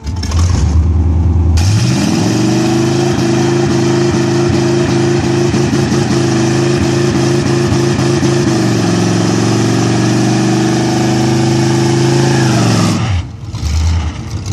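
Chevrolet Monza race car's engine revved up from idle about two seconds in and held at high revs for some ten seconds, then dropping back to idle near the end.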